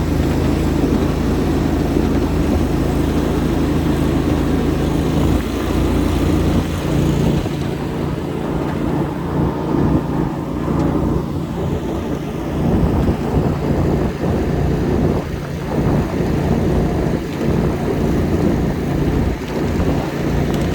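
Ride-on 7.5-inch gauge miniature train running along its track, heard from aboard: a steady mechanical hum from the locomotive that changes pitch about five seconds in, over wheel noise with irregular clicks and knocks.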